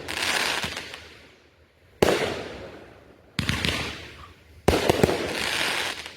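Consumer aerial fireworks going off one after another: four sharp bangs about one and a half seconds apart, each trailing off in a noisy tail over a second or so. The last bang comes with several quick reports close together.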